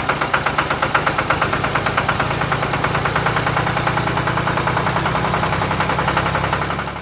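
Engine running steadily with a regular, rapid knocking beat over a low hum.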